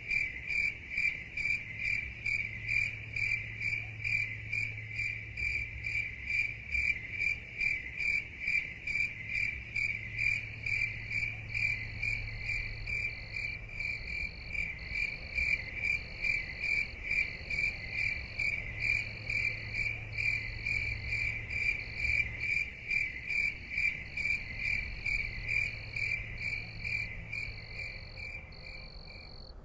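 A cricket chirping in a steady, even rhythm of about three high-pitched chirps a second, stopping just before the end. A fainter, higher insect call pulses alongside it from about a third of the way in.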